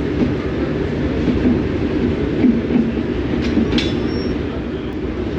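Class 37 diesel locomotive's English Electric engine running with a steady low rumble, and a couple of light knocks a little past halfway.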